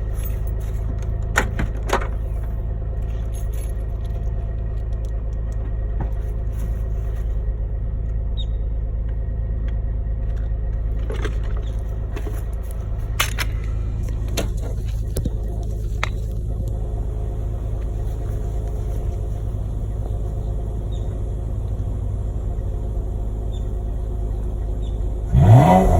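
Nissan Maxima engine idling steadily just after a cold start, a low rumble through its stock exhaust, with a few light clicks along the way. Near the end there is a short, louder rise, like a brief rev.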